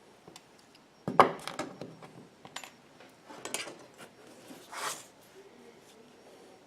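Small repair tools and phone parts clicking and scraping against each other during smartphone disassembly. A cluster of sharp clicks about a second in is the loudest, followed by scattered clicks and a few brief scrapes.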